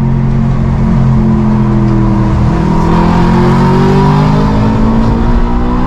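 Loud exhaust note of a 2011 Audi RS5's naturally aspirated V8, running through a full Akrapovic titanium exhaust with its valves open in dynamic mode. The note holds steady, then from about halfway in climbs slowly in pitch as the engine pulls the car faster.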